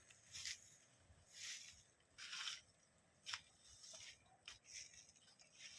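Near silence broken by faint, short rustles, about one a second.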